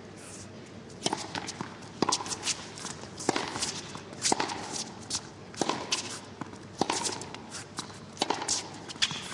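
Tennis rally: the ball is struck back and forth by racquets about once every second and a quarter, seven hits in all, starting about a second in, with the players' quick footsteps between the shots.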